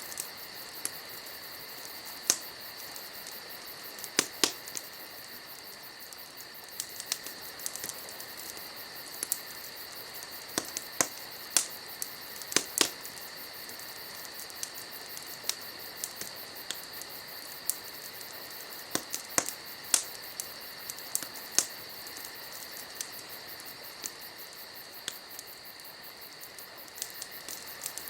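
Wood campfire crackling with irregular sharp pops, some in quick clusters. Behind it, insects trill steadily at night.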